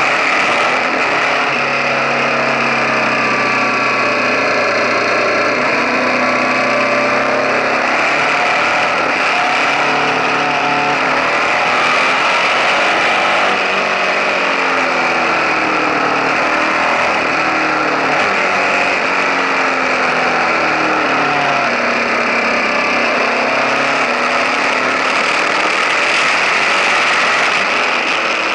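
KTM 1050 Adventure's V-twin engine running while riding, its pitch rising and falling again and again with the throttle, heard close up from beside the engine, over steady wind and road noise.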